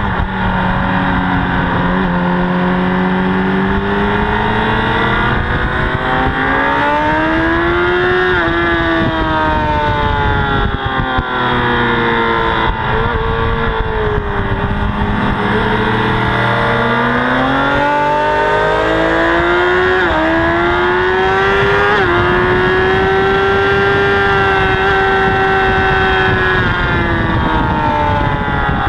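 Honda CBR1000RR's inline-four engine at speed on track, its note climbing and falling repeatedly as it accelerates, brakes and changes gear, with sharp pitch jumps around two thirds of the way through.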